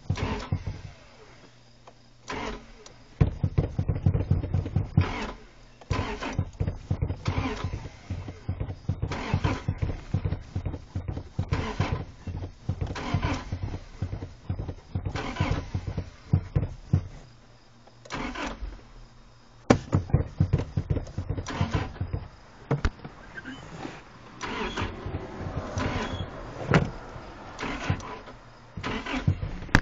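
Car engine cranked over by its starter motor in several long rhythmic bursts, with short pauses between them, while the gas pedal is pumped, flooding the engine.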